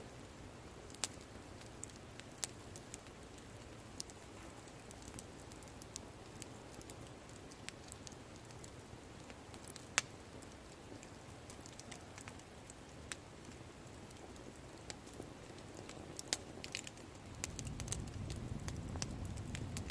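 Wood campfire crackling, with scattered sharp pops over a soft background hiss; a low rumble comes up and grows louder near the end.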